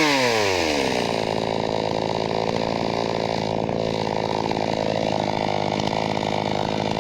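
Two-stroke chainsaw engine coming off a rev, its pitch dropping quickly in the first second, then idling steadily.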